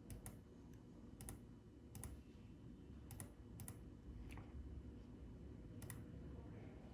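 Computer mouse clicking, about seven sharp clicks at uneven intervals, over a faint low hum.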